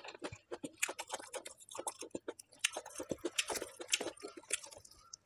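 Close-miked chewing of a mouthful that includes green chilli, heard as irregular wet crunches and mouth clicks.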